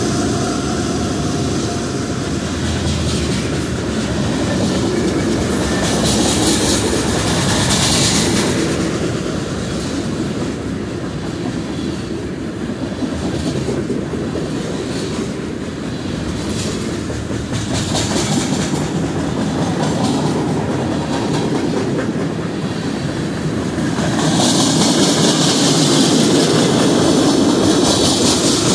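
Freight train cars rolling past close by: a steady rumble of steel wheels on the rails with clickety-clack over the rail joints. A higher hiss from the wheels rises about six seconds in and again for the last few seconds.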